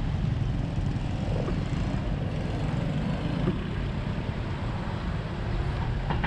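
Wind rumbling steadily over the microphone during a bicycle ride on a road.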